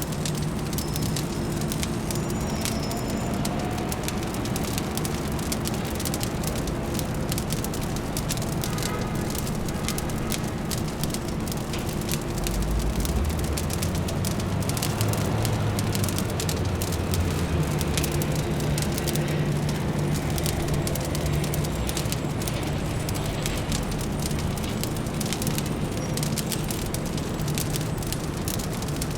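Wood fire crackling with frequent sharp pops over a steady low city hum. About twelve seconds in, a deeper low rumble swells for around ten seconds, then eases.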